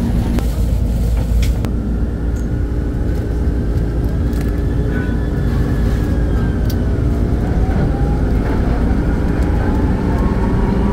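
Metro Manila MRT Line 3 train running: a steady low rumble with a thin whine that glides up and down and rises near the end.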